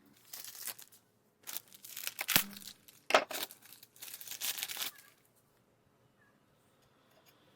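A run of crinkling, crackling noises with several sharp clicks, stopping about five seconds in.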